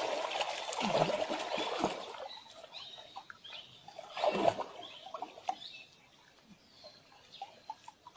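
Splashing water that dies down over about two seconds, followed by scattered small splashes and drips, one louder splash about four and a half seconds in.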